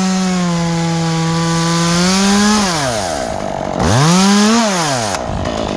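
Stihl two-stroke chainsaw run at full throttle for about three seconds, most likely cutting pine, then dropping to idle. A second short burst of throttle follows about a second later.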